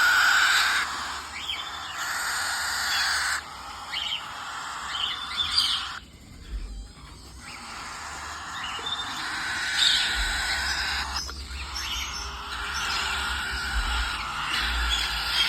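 Young ringneck parakeet chicks calling in a dense, continuous chatter, with a brief lull about six seconds in.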